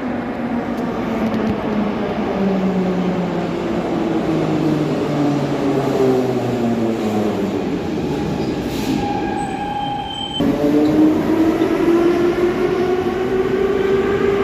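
Moscow metro train's electric traction motors whining, the pitch falling steadily as the train slows. After an abrupt cut about ten seconds in, a train's motor whine rises in pitch as it accelerates away.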